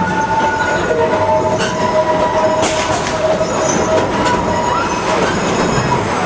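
Cedar Point and Lake Erie Railroad train cars rolling along the track, with steel wheels squealing in long, steady high tones over a continuous running rumble.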